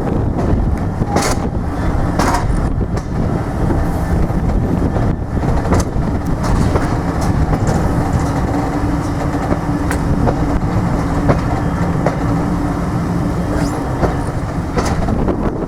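A train rolling past on the rails, its wagons making a steady rumble with irregular clicks of wheels over rail joints. A low steady hum joins about halfway through.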